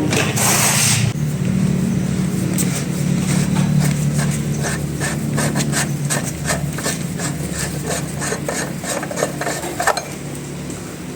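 Quick repeated rasping strokes of a hand tool scraping at a workpiece, about two to three a second, starting about two seconds in and stopping near the end, over a steady low hum.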